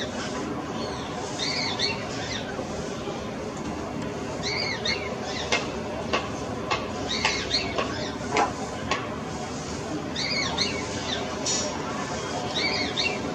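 Small birds chirping repeatedly, short high chirps in twos and threes, over a steady low hum. A few sharp clicks come in the middle.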